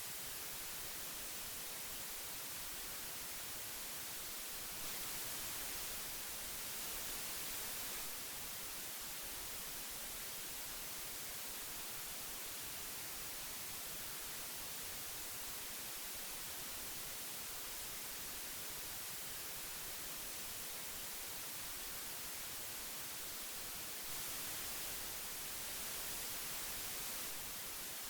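Steady tape hiss from old magnetic tape, an even high-pitched noise, swelling slightly twice.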